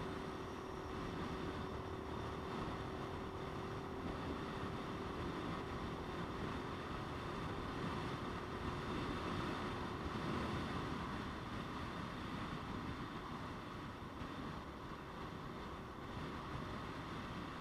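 Steady rush of wind and engine noise from a motorcycle under way, with a faint steady hum that fades out about halfway through.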